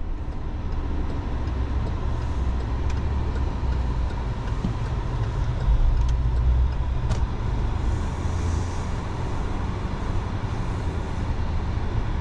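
Road and engine noise inside a moving car: a steady low rumble with a faint steady tone above it and a few light clicks.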